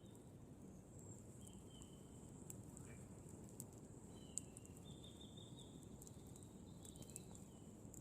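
Faint campfire: burning wood crackling with scattered sharp pops, the loudest about four and a half seconds in, over a soft low rumble. Short thin high bird calls come a few times.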